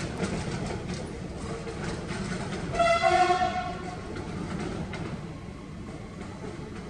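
Blue-and-white SNCF TER AGC multiple unit running slowly away along the track, its rumble fading. About three seconds in it gives one short horn blast, lasting less than a second, the loudest sound here.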